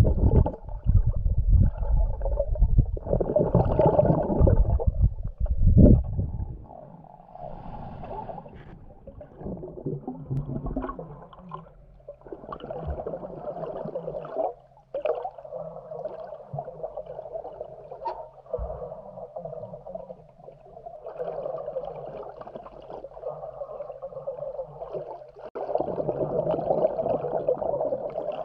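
Underwater sound in a swimming pool: muffled, rising and falling swishing and gurgling of moving water. Heavy low rumbling fills about the first six seconds, then fades to a lighter, uneven wash.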